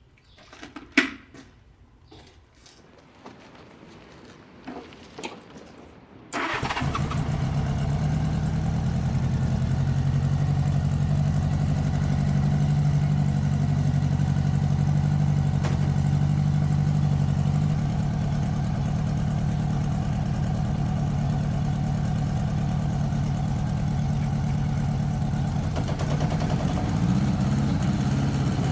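A few sharp clicks and knocks. Then, about six seconds in, a motorcycle engine comes on abruptly and runs steadily at an even pitch.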